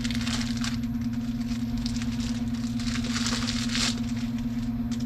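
Tack cloth being rubbed and wiped over a car's painted panels, giving soft rustling swishes in three strokes, the longest near the middle. A steady low machine hum runs underneath throughout.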